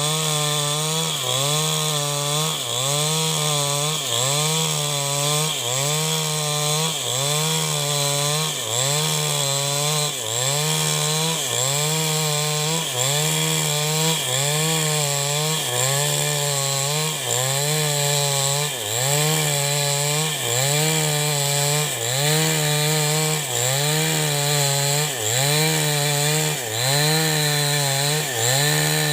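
New West 788 chainsaw running at high revs while ripping wood into beams, its engine pitch dipping and recovering about once a second as the chain is pushed into the cut.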